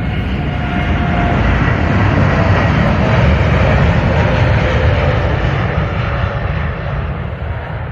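Airliner's engines at takeoff power as the plane climbs out past the listener: a loud, heavy engine noise with faint whining tones that slowly drop in pitch, growing to its loudest about three to four seconds in and then fading.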